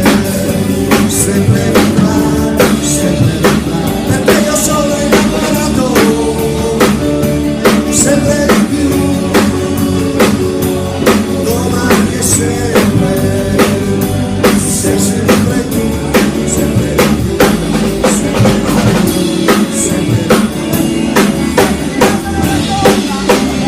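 A band playing rock music: drum kit keeping a steady beat under bass and guitar.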